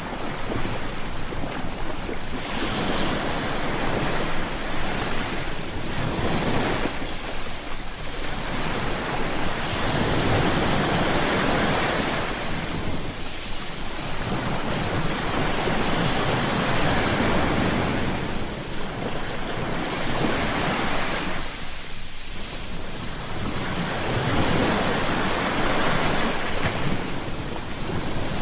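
Ocean surf: waves rushing in and washing back, swelling and easing every several seconds.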